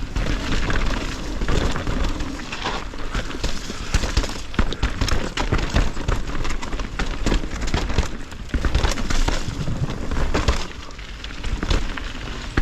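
Mountain bike descending a wet, rooty dirt trail: tyres rolling and skidding over dirt and roots, the bike rattling with many sharp knocks, and wind buffeting the handlebar- or helmet-mounted action camera's microphone.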